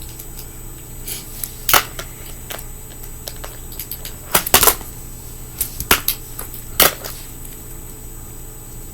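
Scattered sharp clicks and taps of a fingerboard's small metal trucks and a skate tool being handled while the trucks are loosened, with a cluster of clicks in the middle and a last click near the end.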